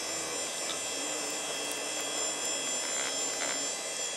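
Open desktop PC running with its cooling fans whirring steadily, while the CPU heatsink fan is pushed along by hand and speeds up, with a few faint ticks about three seconds in. The fan's bearings are shot, so on its own it barely spins.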